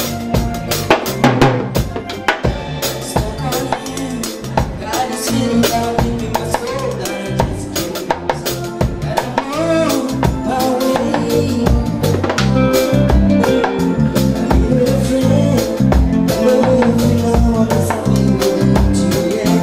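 Fusion band playing an instrumental passage: drum kit keeping a steady beat under bass and melodic instruments, with no singing.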